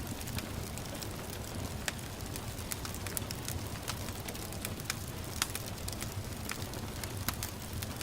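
Wood fire crackling in a fireplace, with sharp irregular pops and snaps over a steady low rumble and hiss, with a soft patter of rain.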